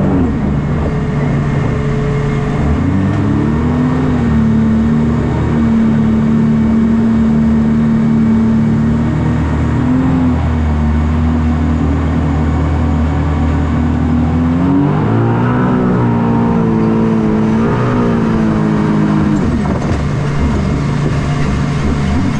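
Engine of the Hydro Attack shark-shaped watercraft running steadily, then revving up and back down twice in the latter half and rising again near the end.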